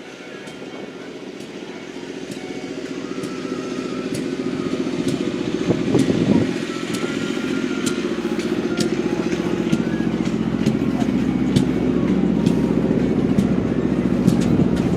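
Fordson Major Diesel tractor's four-cylinder diesel engine running, growing steadily louder, with a brief louder surge about six seconds in.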